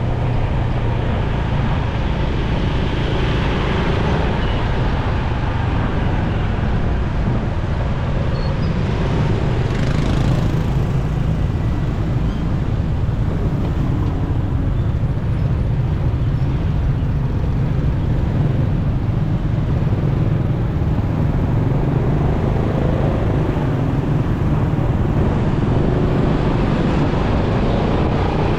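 Riding on a motorcycle in traffic: the engine runs steadily under a constant rush of wind and road noise, with a brief louder rush about ten seconds in.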